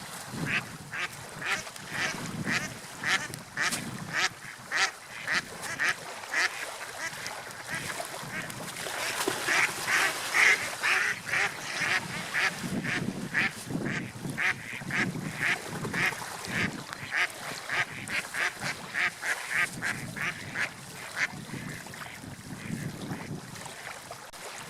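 Gulls calling in a long run of short, repeated cries, about two or three a second, loudest about ten seconds in and thinning out near the end, over a steady wash of wind and surf.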